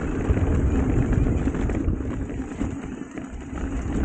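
Wind buffeting the camera microphone over the rumble and rattle of an Ibis Mojo HD5 mountain bike rolling down a dirt trail, with small clicks and knocks from the tyres and frame over rough ground.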